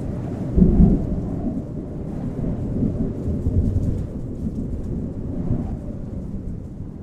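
A deep, uneven rumble with a louder swell a little over half a second in.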